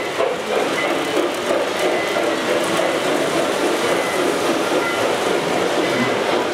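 O gauge model train rolling steadily along the layout's track, its wheels running on the rails.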